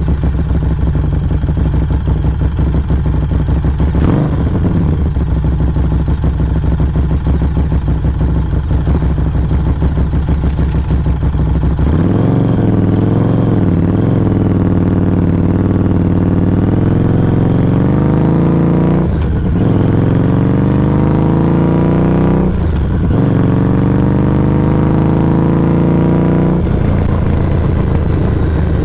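Exhaust of a Harley-Davidson Street XG500's V-twin through a Firebrand Loose Cannon slip-on muffler, heard close at the muffler. The engine runs low and steady for about twelve seconds, then pulls away rising in pitch with two brief gear-shift breaks, and drops back to a low steady note near the end.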